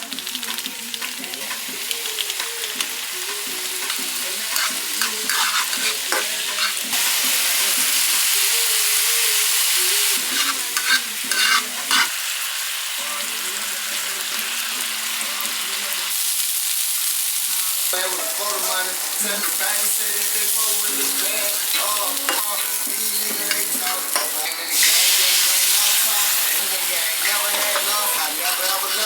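Food frying and sizzling in a pan, with occasional utensil clicks and scrapes. The sizzle changes abruptly several times, swelling louder in a couple of stretches.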